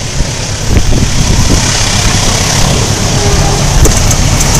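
Diesel-hauled express train approaching across a steel truss railway bridge: a loud low rumble with a hiss above it, getting louder about a second in.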